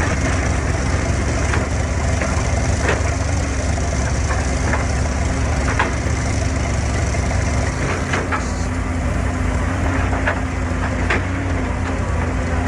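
Excavator's diesel engine running steadily under load, with scattered sharp clicks and cracks from the machine's digging work. The deepest part of the rumble eases about eight seconds in.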